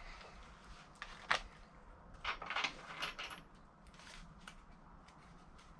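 A handful of light knocks and clatters, short and sharp and spread through the stretch, from handling the metal-clad pipe box and tools.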